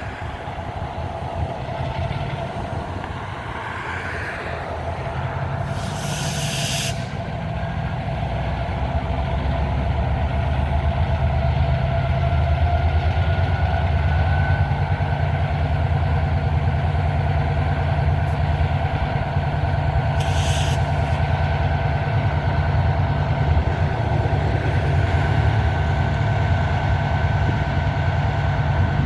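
Diesel engine of an EMD MP15 switcher locomotive running with a steady low rumble that grows louder over the first half, with two short bursts of air hiss, about six and twenty seconds in.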